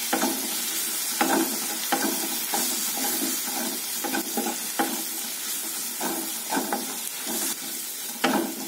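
Onion, tomato and spice-powder masala sizzling in oil in a non-stick wok while a spatula stirs and scrapes it. Irregular scraping strokes sound over a steady sizzle as the spices are fried to cook off their raw smell.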